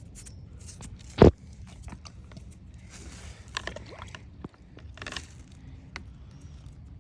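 Handling of a homemade plastic-pipe toy toilet: a sharp knock about a second in, then scattered scraping and rustling.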